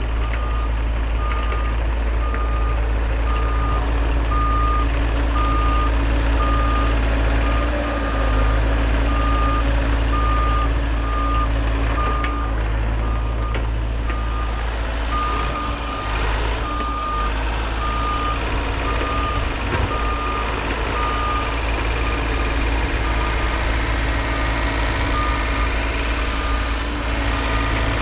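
Backup alarm on a piece of heavy equipment beeping steadily, about one and a half beeps a second, over the machine's diesel engine running.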